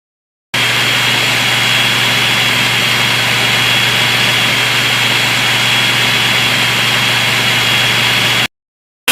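Buzzsaw sound effect: a steady, loud, high-pitched whine over a low hum, starting about half a second in and cutting off abruptly near the end.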